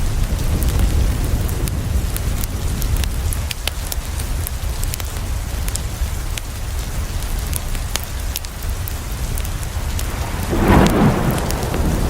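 Steady rain ambience: rain on a window with sharp crackles from a wood fire and a deep low rumble underneath. A louder surge of noise swells briefly near the end.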